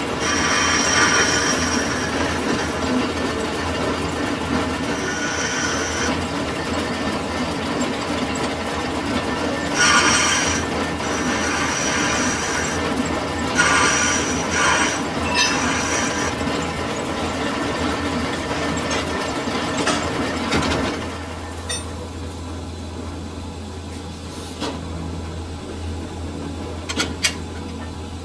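Metal lathe machining a bush, with the cutting tool on the metal giving short bursts of a high-pitched squeal. About two-thirds of the way through the cutting noise drops away, leaving a steady machine hum and a few clicks.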